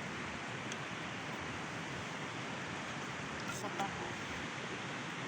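A steady rushing hiss with a few faint clicks, and faint voices in the background about two thirds of the way in.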